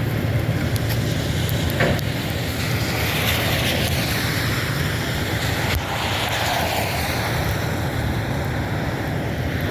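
Street traffic sound: a steady low engine rumble with wind buffeting the microphone, and two swells of tyre hiss as vehicles pass, about three and six seconds in.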